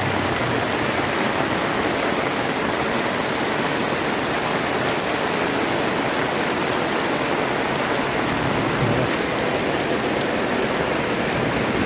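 Super heavy rain pouring down in a steady, dense hiss.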